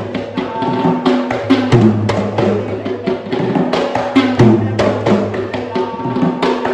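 Sri Lankan traditional folk drumming: rapid, sharp drum strikes over a held low tone that breaks off and returns every second or two.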